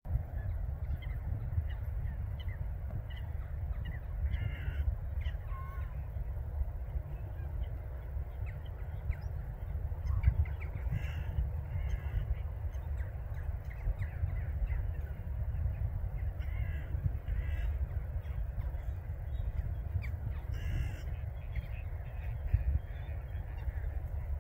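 Bird calls in short bouts of several notes, a few seconds apart, over a steady low rumble.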